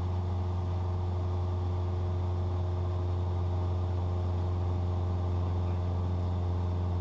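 Cessna 172's piston engine and propeller droning steadily in the cabin, one even low hum with a constant pitch.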